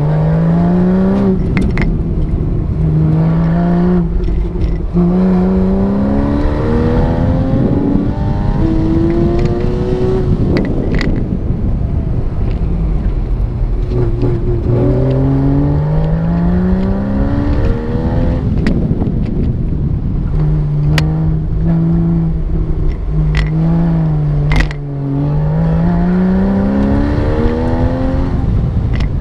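Porsche engine heard from inside the cabin during an autocross run. It revs up in repeated rising sweeps, then drops back as the driver lifts, brakes and shifts between cone sections, over steady road and wind noise. A few brief sharp clicks come through.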